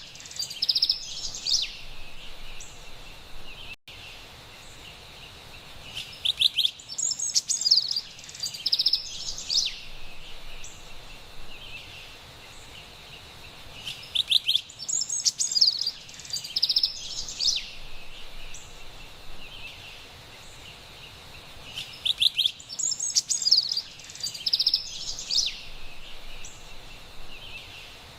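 Carolina wren singing bouts of loud, rapidly repeated whistled phrases about every eight seconds, each bout identical to the last, as in a looped recording. Between the bouts there is a steady faint hiss, and the sound drops out for an instant about four seconds in.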